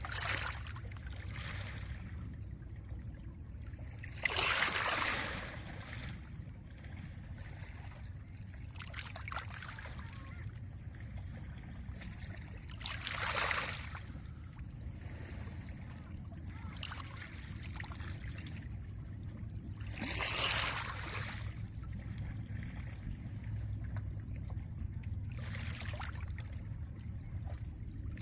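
Small lake waves breaking gently and washing over a pebble shore, a hissing wash every few seconds, the strongest about four and a half and thirteen and a half seconds in. A steady low rumble of wind runs underneath.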